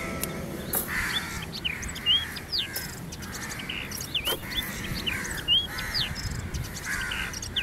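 Birds chirping and calling: many short, quick whistled notes that sweep up and down, one after another.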